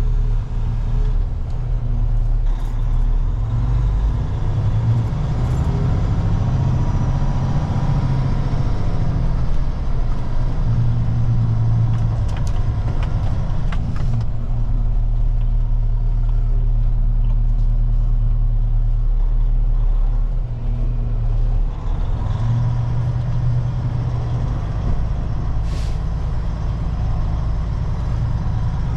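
Heavy diesel truck engine running steadily, its low rumble swelling a few times, with a short hiss late on.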